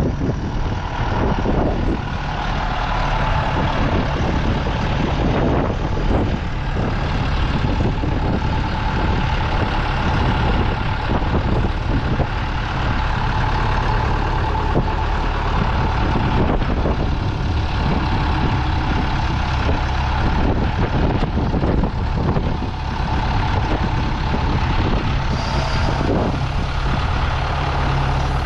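Farm tractor engine running steadily, a loud, even low hum.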